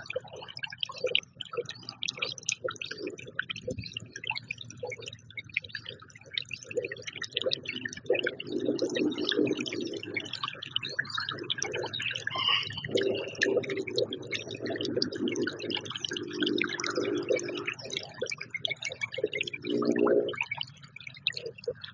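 Irregular clicking and tapping, as of birds pecking and hopping at a feeder, with a lower pitched sound that swells up several times.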